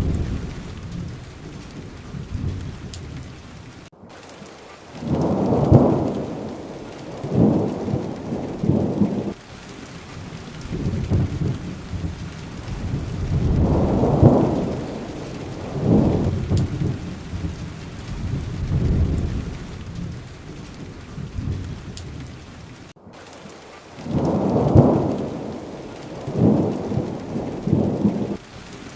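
Steady heavy rain with rolling thunder, low rumbles swelling and fading every few seconds. The sound cuts out for a split second twice.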